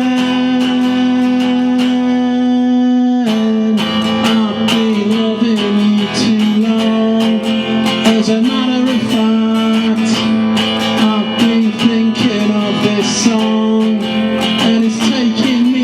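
Solo acoustic guitar playing a blues song, dense plucked and strummed notes over a held low note that drops in pitch about three seconds in.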